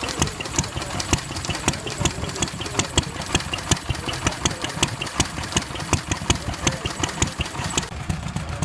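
Vintage tractor engine running slowly at idle, with a steady beat of sharp firing knocks about five a second over a low rumble.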